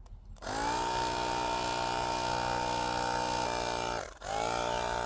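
Portable electric tire pump's motor running with a steady whine, putting a first bit of air into a bicycle tire to seat it on the rim. It spins up with a brief rise in pitch, runs for about three and a half seconds, stops for a moment, then runs again.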